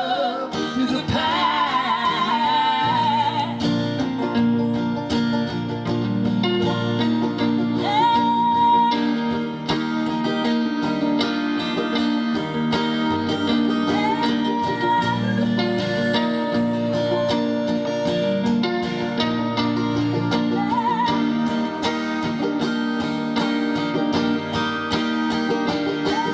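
Live Americana band playing an instrumental passage on guitars, with a lead line that slides up into its notes several times. A held sung note fades out in the first few seconds.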